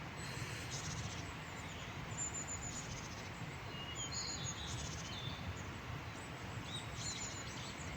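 Birds chirping in short high calls now and then over a steady outdoor background hiss.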